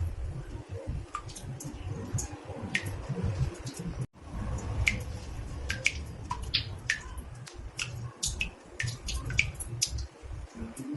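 Water drops falling into a bathtub, plinking irregularly a few times a second and more often in the second half, over a low steady rumble. The sound cuts out for an instant about four seconds in.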